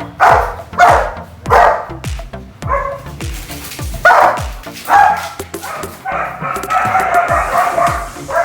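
A dog barking repeatedly in short barks, over background music with a steady bass-heavy beat.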